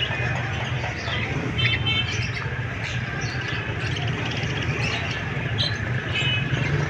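Pet parrot giving a few short chirps over a steady low hum.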